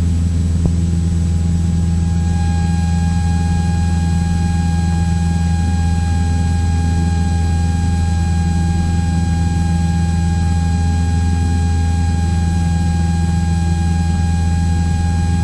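Cockpit drone of a Cessna 172's four-cylinder piston engine and propeller running steadily at climb power. A thin, steady high tone joins the drone about two seconds in.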